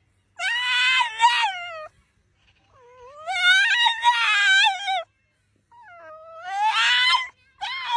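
A pet animal giving long, drawn-out wailing calls, three in a row with short pauses between, each rising and falling in pitch, with a fourth starting at the end.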